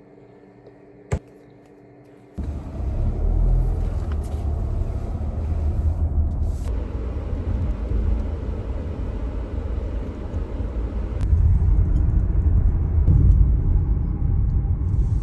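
Faint room tone with one sharp click about a second in, then an abrupt cut to the loud, steady low rumble of a car driving.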